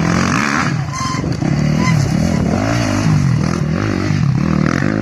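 Rally-raid motorcycle engine revving, its pitch rising and falling several times as the rider works the throttle through the gears.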